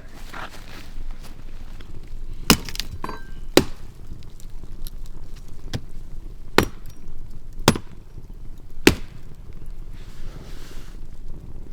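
Five sharp, single chopping strikes, spaced about a second or more apart, of a knife through herbs onto a wooden board.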